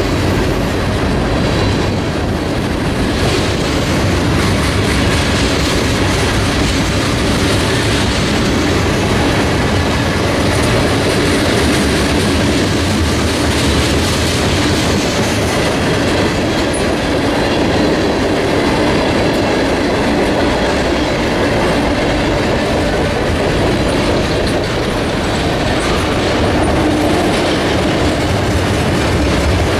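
Freight cars of a mixed freight train rolling past: steady loud noise of steel wheels on rail, with a continual run of small clicks and knocks from the wheels and cars.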